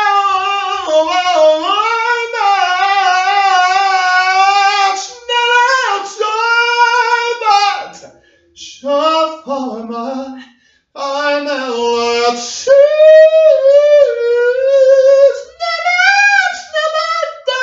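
A single high voice singing long, held, wavering notes in a chant whose words can't be made out, in a small room. It breaks off briefly twice.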